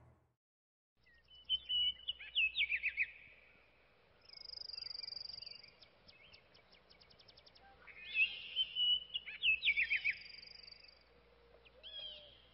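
Songbirds singing over a faint low background hum, starting after about a second of silence. A phrase of quick falling chirps comes about a second and a half in and again about eight seconds in, with a high buzzy note held for about a second between phrases.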